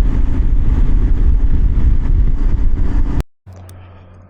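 Kawasaki KLR 650 single-cylinder motorcycle at highway speed, its engine mixed with loud wind rush on the rider's microphone. A little after three seconds it cuts off abruptly, and a much quieter low steady hum follows.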